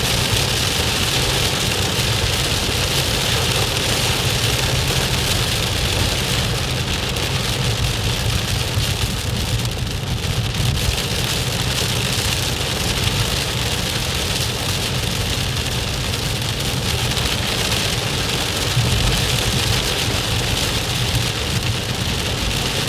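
Heavy rain drumming steadily on a car's roof and windshield, heard from inside the cabin, with the car's engine and road noise running low underneath.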